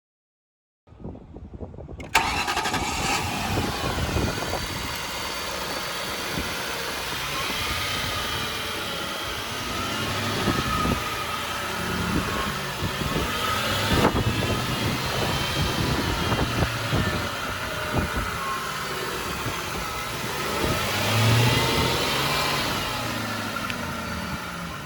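2003 Ford Thunderbird's 3.9-litre V8 cranking and catching about two seconds in, then running at idle with occasional revs, the strongest near the end.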